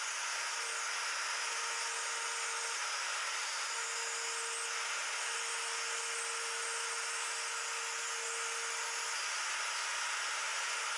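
A handheld router running steadily with a guide bushing against a template, cutting a 1/8-inch-deep escutcheon mortise into Bolivian rosewood. It makes an even, high hiss with a faint steady whine that fades out near the end.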